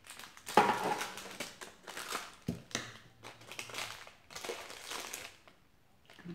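Close-miked biting and chewing of a chocolate-covered marshmallow lollipop: a run of irregular crunching chews that dies away about five and a half seconds in.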